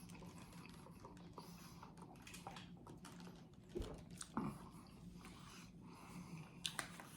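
Faint close-up chewing of a bite of a crispy fried chicken sandwich, with soft mouth clicks and two brief louder bites or munches about four seconds in, over a low steady hum.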